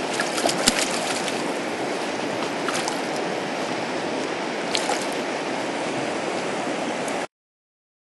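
River water rushing steadily, with a few short sharp sounds over it, cutting off abruptly about seven seconds in.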